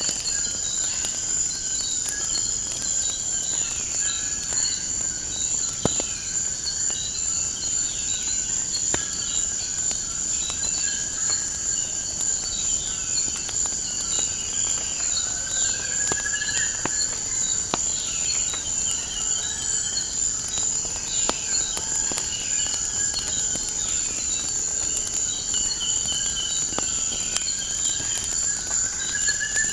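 A steady high chorus of crickets, with birds chirping in short falling notes and now and then a rising whistle. A few sharp crackles and pops of a wood fire sound here and there.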